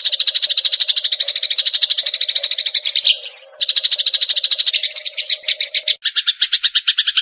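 Sparrows giving fighting calls: a fast, continuous chatter of short chirps, broken briefly about three seconds in and changing pattern about six seconds in.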